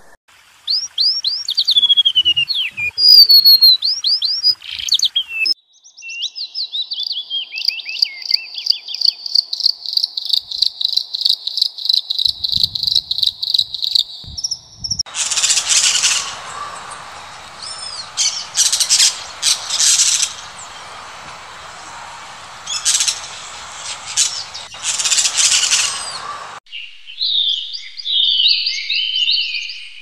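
Several songbirds singing and calling in turn. First come quick falling song phrases, then a long fast trill lasting several seconds, then sharp repeated calls over a steady hiss for about ten seconds, and near the end a burst of chattering song.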